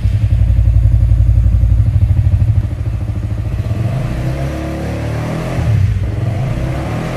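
Motorcycle engine running and being revved. It starts with loud, fast, even exhaust pulses, then a little quieter with the pitch climbing and wavering through the second half.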